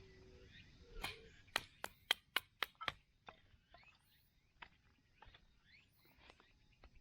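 Wood being chopped: six quick, sharp chopping strikes at about four a second, followed by a few fainter taps.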